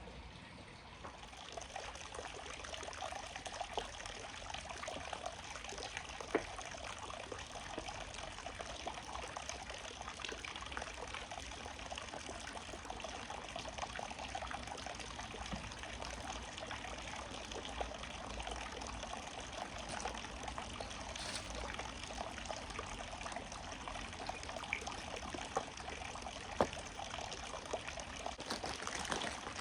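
Steady trickling of running water, with a few faint ticks.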